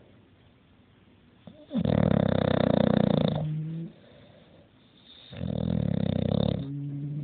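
A dog snoring: two long, loud, rasping snores about a second and a half apart. Each tails off into a short, steadier hum.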